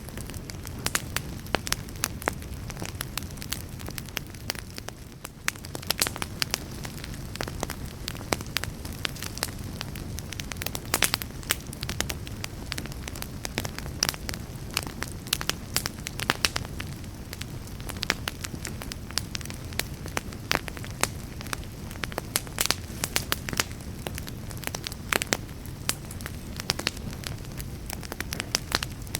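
Wood fire burning in a fireplace: a steady low rumble of flame under constant sharp crackles and pops.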